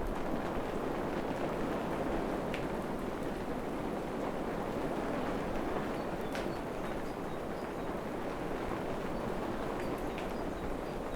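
Steady rain falling on forest foliage, an even hiss with a few sharper drips landing close by.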